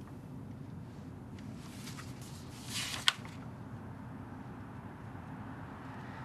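A steady low hum, with a short rustle that swells about one and a half seconds in and ends in a single sharp click about three seconds in.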